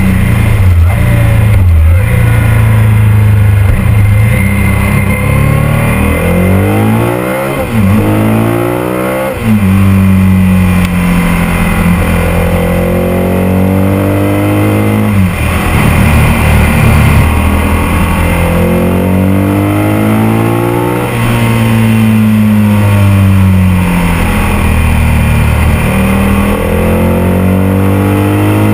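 Ducati 851's 90-degree V-twin engine under way, its pitch climbing as it revs and dropping again several times through gear changes and throttle lifts, heard close from an onboard camera.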